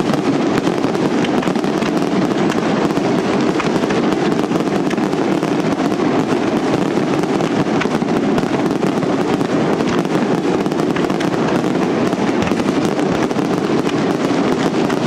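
Fireworks display: many rapid bangs and crackles of rising comets and bursting shells, running almost without a break.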